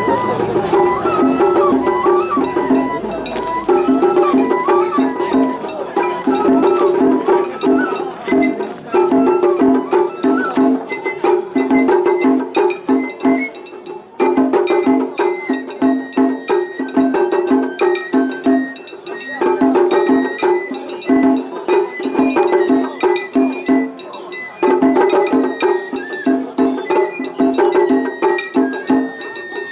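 Japanese festival hayashi music: a transverse bamboo flute playing a melody over fast, steady taiko drumming, with a metallic hand-gong ticking along. The playing thins briefly about halfway through, then resumes.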